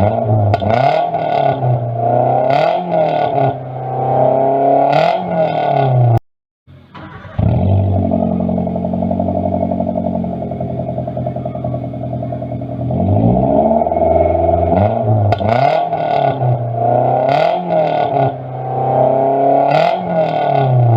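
Petrol car engine through an Omega stainless-steel racing muffler: the throttle is blipped in repeated quick revs, the sound cuts out for about a second near six seconds in, then the engine idles steadily for several seconds before more blips of the throttle.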